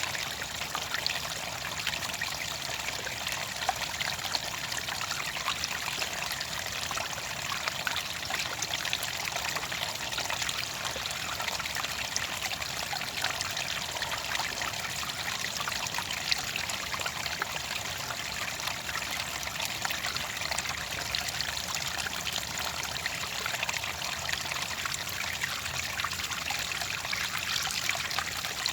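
Clear water trickling and splashing steadily in a shallow stream, a dense patter of small drops and ripples with no change in level.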